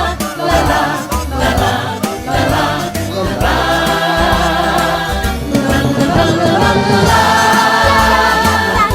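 Music: a choir of voices singing over an upbeat accompaniment with a steady bass line.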